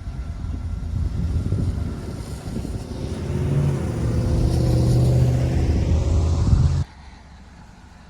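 A train passing close by, its locomotive engine running loud and low. It grows louder over a few seconds, then cuts off abruptly near the end.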